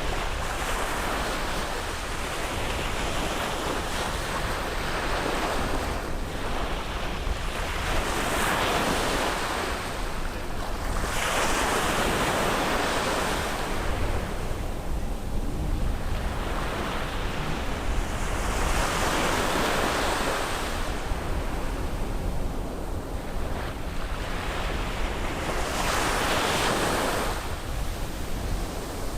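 Sea waves breaking and washing up on a beach, the surf swelling in surges every several seconds, about five of them, over a steady low rumble of wind on the microphone.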